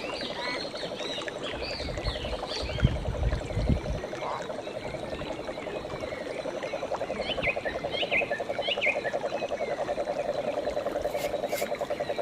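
Frogs trilling in a steady, fast-pulsing chorus, with birds chirping over it. A few low thumps come about three seconds in.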